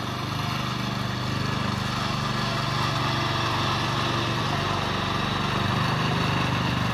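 Small single-cylinder engine of a power tiller running steadily at a constant speed, with a rapid even firing beat.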